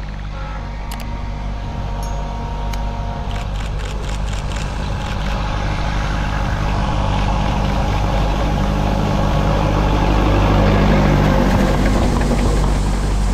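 Narrow-gauge diesel locomotive's engine running steadily, growing louder toward the end, with a few light clicks in the first few seconds.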